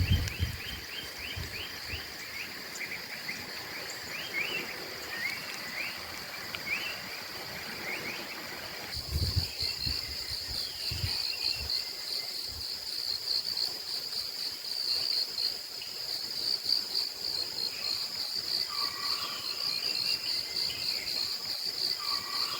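Tropical rainforest ambience. For the first stretch birds call with repeated quick rising chirps over a faint high hum. About nine seconds in, the sound changes abruptly to a loud, steady, pulsing high insect trill, like crickets, with scattered bird calls beneath it.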